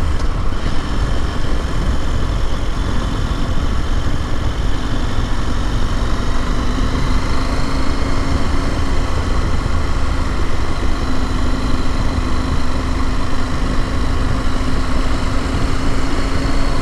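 KTM 890 Adventure parallel-twin motorcycle engine cruising under steady wind and road rumble, its pitch creeping gradually up from about six seconds in as the bike picks up speed.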